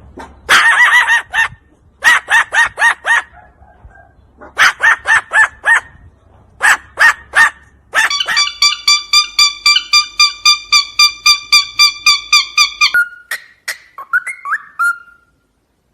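A parrot calling in rapid, evenly spaced clipped notes: four short bursts, then a long run of about five calls a second that stops near the end, followed by a few short gliding squawks.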